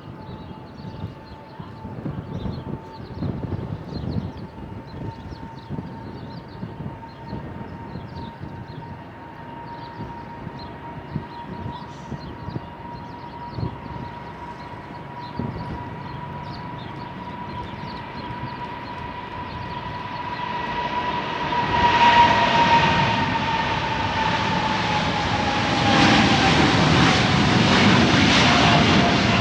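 Jet aircraft approaching and passing close by. A steady engine whine grows louder over the last several seconds and drops in pitch as it goes past, with the engine rush loudest near the end.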